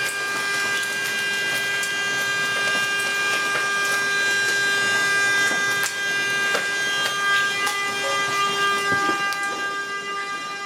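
A car horn blaring without a break, going off on its own after the storm, with a steady held pitch that wavers slightly as part of the sound drops in and out. Scattered sharp ticks sound over it.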